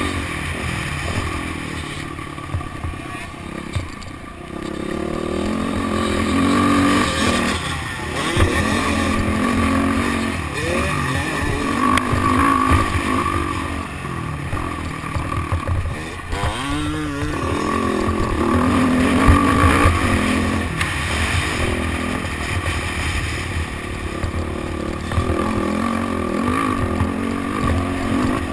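Motocross dirt bike engine revving up and falling back over and over as the bike accelerates and shifts around the track, with rumble on the microphone.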